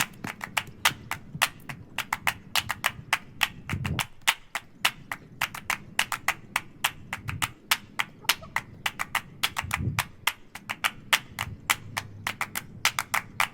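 A fast, irregular run of sharp clicks and taps, several a second, with a few dull low thumps among them.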